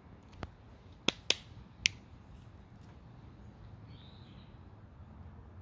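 Four sharp clicking snaps in the first two seconds, two of them close together about a second in, from a red squirrel gnawing and tearing at a tree. A faint short chirp comes about four seconds in.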